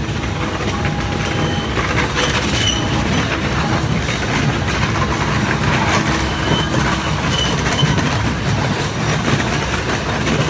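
Miniature ride-on train rolling along its track, a steady rumble and clatter of wheels on rails heard from an open passenger car.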